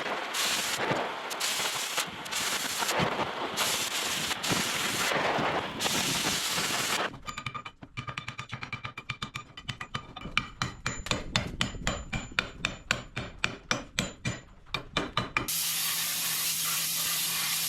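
Power tools working steel plate while it is cleaned up and chamfered: a rough grinding noise for several seconds, then a quick run of sharp metallic clicks and taps, then a steady hiss with a low hum near the end.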